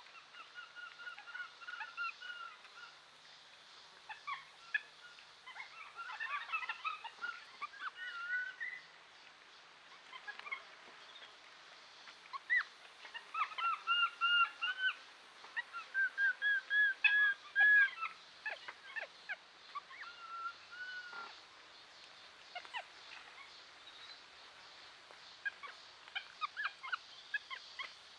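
Birds calling: many short, harsh calls, some in quick runs of repeated notes, loudest a little past the middle.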